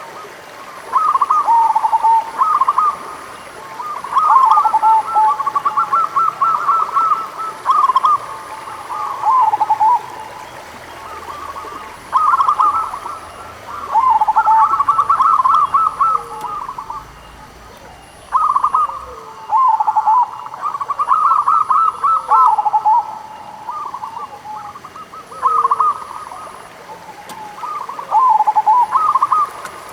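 Perkutut (zebra dove) cooing: repeated bursts of quick, stuttering coo notes, each phrase about one to two seconds long, coming every couple of seconds with overlapping phrases at slightly different pitches.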